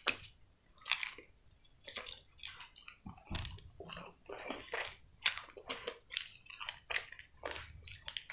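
Close-up chewing of crispy breaded chicken: a bite at the start, then a run of short, irregular crunches as it is chewed.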